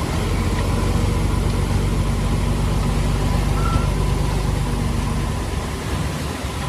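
Heavy machine's diesel engine running steadily with a low hum, easing off a little about five and a half seconds in.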